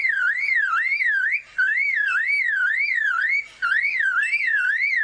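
Male superb lyrebird mimicking a car alarm: a loud whooping tone that swings up and down about twice a second, broken by two short pauses.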